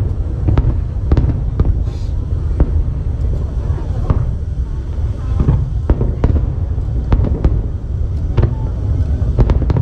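Fireworks display: aerial shells bursting in quick, irregular succession, many sharp cracks over a continuous low rumble.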